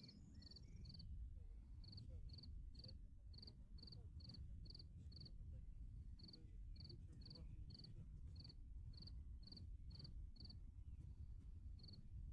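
A cricket chirping faintly, about two chirps a second in runs with short pauses, over a low rumble.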